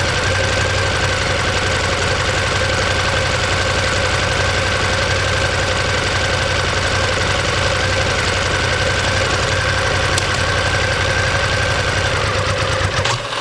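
Ducati Monster 1200S's L-twin engine and exhaust running at a steady engine speed with an even, pulsing beat. Near the end the low rumble briefly drops out.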